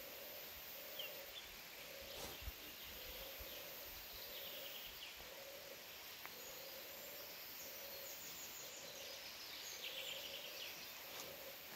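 A bird giving a long, even run of low hooting notes, about one a second, with a few faint chirps of small birds higher up.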